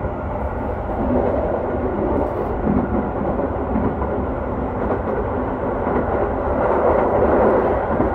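Keio 5000 series electric train running at speed, heard from inside the passenger car: a steady rumble of wheels on rail with running noise, a little louder in the last couple of seconds.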